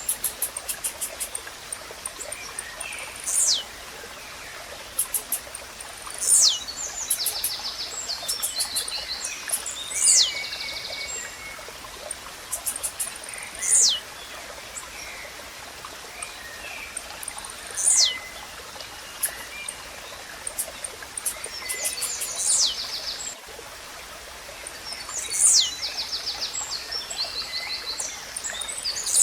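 Blue-black grassquit (tiziu) repeating its short, sharply falling song about every three to four seconds. Behind it, other birds chirp and trill over a steady wash of running water.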